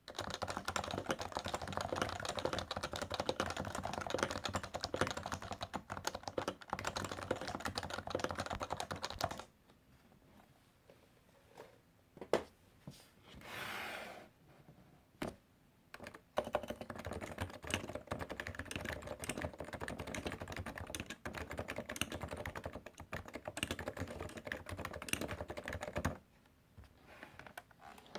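Computer keyboard typed on rapidly: a long stretch of fast key clicks, a pause with only a few single key presses and a brief rustle, then a second long stretch of fast typing that stops near the end.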